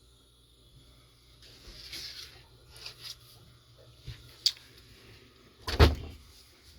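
Quiet cabin with a few soft knocks and a sharp click, then one loud thump about six seconds in, from someone moving about and handling doors and fittings.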